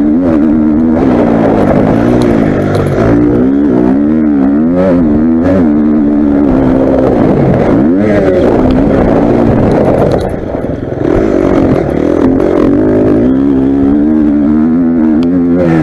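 Motocross motorcycle engine revving up and down over and over as the throttle is opened and closed, with a short drop in loudness about ten seconds in.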